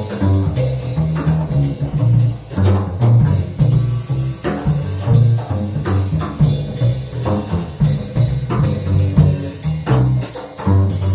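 Jazz with plucked double bass notes over a drum kit played with cymbals. The saxophone is not clearly heard.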